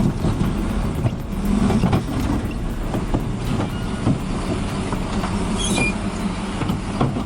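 A heavy vehicle running, a steady low rumble with a few short knocks and rattles.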